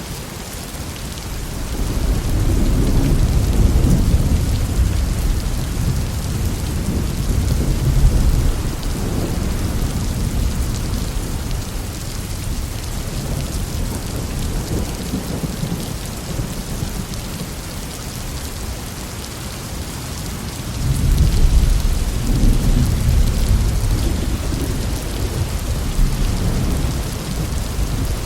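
Heavy rain falling steadily, with two long low rolls of thunder, one starting about two seconds in and another about two-thirds of the way through.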